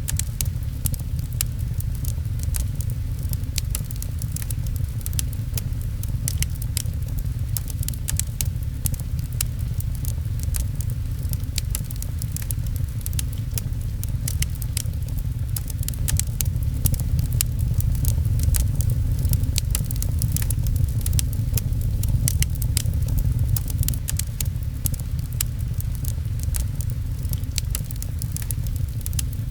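Fireplace crackling, many small sharp pops and snaps, over a steady low rumble with rain pattering.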